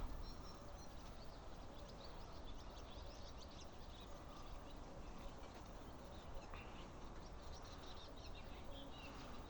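Faint outdoor background noise with scattered small bird chirps.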